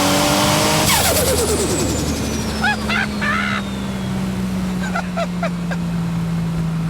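GT-R-powered Datsun 240Z's twin-turbo engine on a third-gear pull, pitch climbing. About a second in the throttle lifts: a sudden rush of released turbo boost and a long, falling turbo whistle. The engine then runs on at a lower pitch that slowly drops as it slows.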